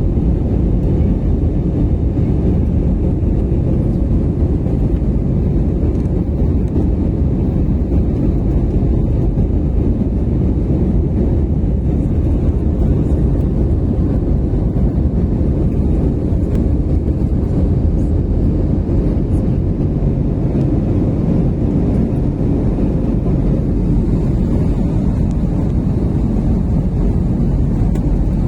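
Passenger airliner's engines and rushing air during takeoff or climb, a loud, steady low rumble.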